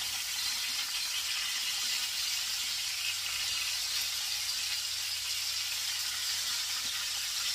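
Chicken thighs frying in hot fat in a stainless steel sauté pan: a steady sizzle with grease spattering as they are turned.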